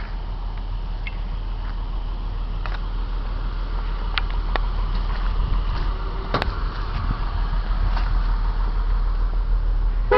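Car engine running with a low, steady rumble that grows slowly louder, with a few light clicks over it.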